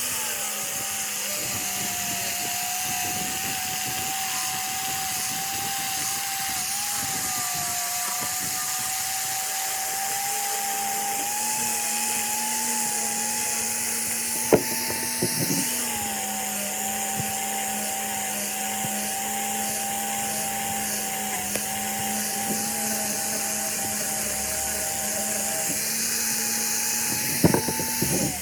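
Electric power tool motor running continuously, a steady whine whose pitch dips slightly under load a couple of times, with a few sharp clicks, one in the middle and several near the end.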